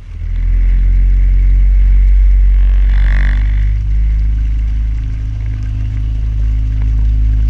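Motorboat engine coming up to speed at the start, then running loud and steady with a deep hum. A brief higher-pitched sound rises over it about three seconds in.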